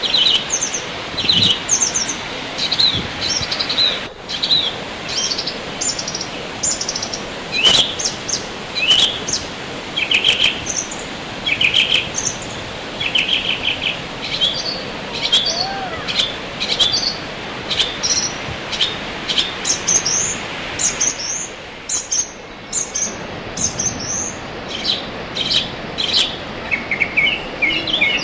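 Wild birds chirping and calling over and over in short, quick phrases, several at once, over a steady rushing hiss.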